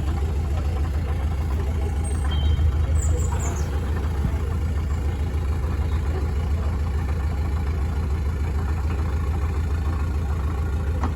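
Canal boat's engine running steadily with an even low hum, swelling slightly a couple of seconds in.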